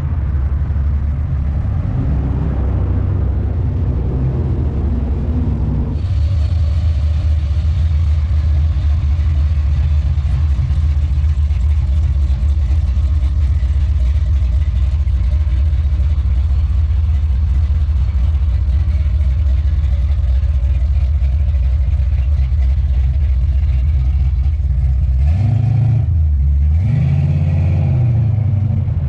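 Engines of classic American muscle cars and hot rods rumbling steadily on the road. Near the end one engine revs up and back down.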